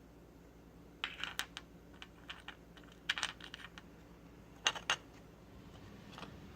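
Small hard toy parts clicking and clinking together as they are handled, in several short clusters of taps, with two sharper knocks a little over halfway through.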